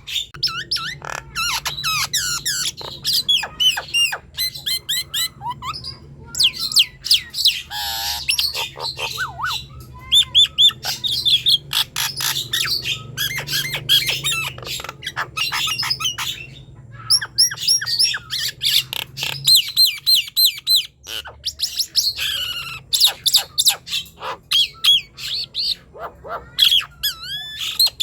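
Nias hill myna singing continuously: a rapid, varied run of loud whistles, rising and falling glides and sharp clicks, with only brief pauses.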